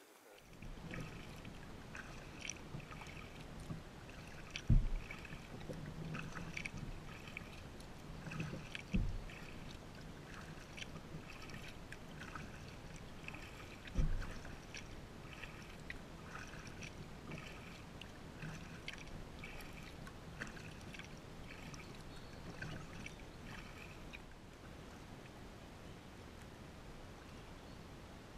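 Kayak being paddled, heard from a camera mounted on its bow: irregular paddle splashes and water moving along the hull, with three dull knocks in the first half.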